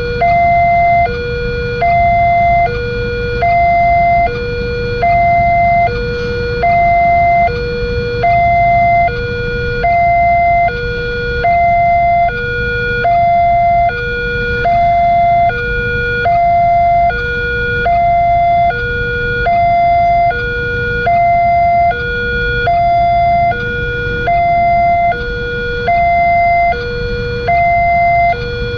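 Railway level-crossing warning alarm sounding a steady electronic two-tone, high and low notes alternating about every half second, over a constant low rumble.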